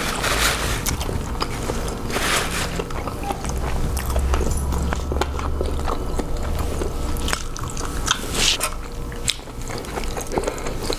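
A person chewing and biting into seafood boil close to the microphone, with many small wet mouth clicks and a few short noisy swishes.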